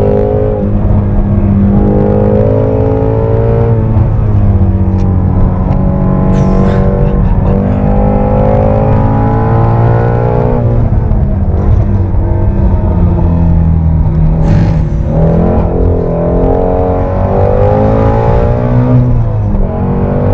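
Ford Mustang Shelby GT350R's 5.2-litre flat-plane-crank V8 driven hard on track, heard from inside the cabin: the engine note climbs in pitch and drops back again and again as it is worked through the gears. Two short sharp sounds cut through, about six and fifteen seconds in.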